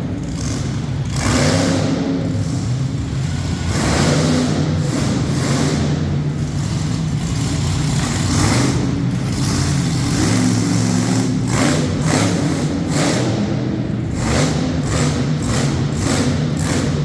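Monster truck engine revving hard, its pitch rising and falling again and again, with several sharp knocks in the second half.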